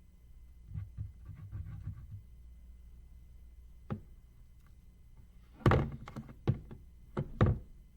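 Soft handling rustle, a single tap, then a quick run of about five dull thumps on a tabletop while grass is being glued onto a paper collage.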